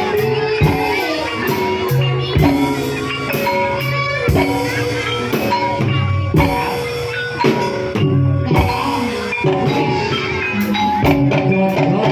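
Gamelan music for an ebeg horse dance: struck mallet percussion playing held, ringing notes over a steady run of hand-drum strokes.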